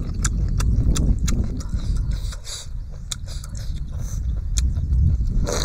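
Close-up eating sounds of a man chewing and sucking on a cooked octopus tentacle: a run of sharp wet mouth clicks and smacks with a few short slurps, over a steady low rumble.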